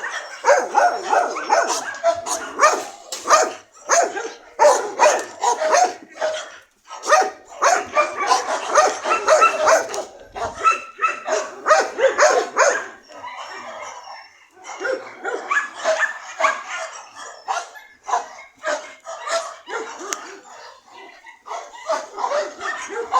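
A dog barking and yipping repeatedly in rapid short barks, with a brief lull a little past halfway.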